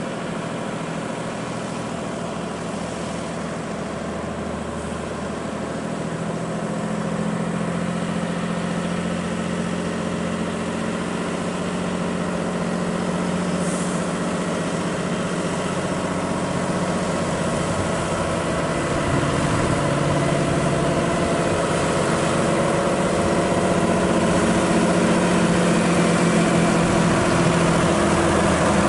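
Volvo FH16 550 truck's diesel engine running steadily on a downhill descent. It grows gradually louder, with a step up about six seconds in.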